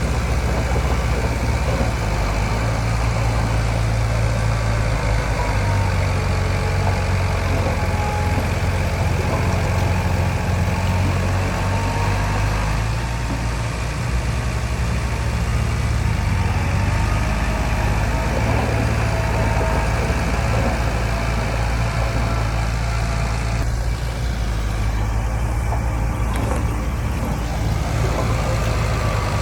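Diesel engine of heavy earthmoving machinery running steadily with a deep drone, with faint whines that drift in pitch.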